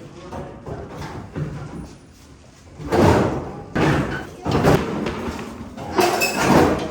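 A series of heavy thumps and bangs, about four or five, loud and sudden, starting about three seconds in, like heavy parts being knocked or set down.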